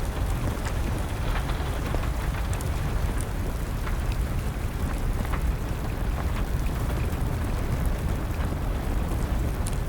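Steady rain over a low rumble, with scattered sharp pops and crackles from a burning wood fire.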